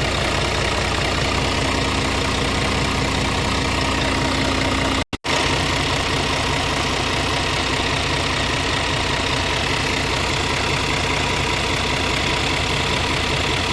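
Scania R450 tractor unit's 13-litre inline-six diesel idling steadily, with a brief break to silence about five seconds in.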